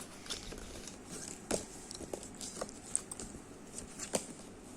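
A CD case and its lyrics booklet being handled: scattered soft clicks and light rustling, with a sharper click about one and a half seconds in and another near four seconds.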